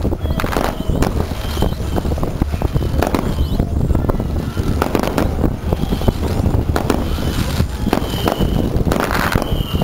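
Aerial fireworks going off in an irregular series of bangs and crackles, over a steady low rumble.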